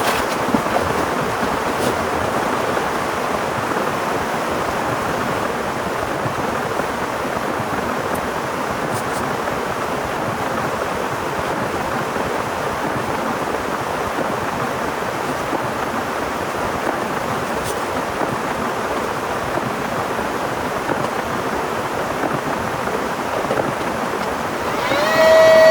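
Heavy rain falling, a steady even hiss with a few faint ticks. Near the end a steady humming tone rises in and holds.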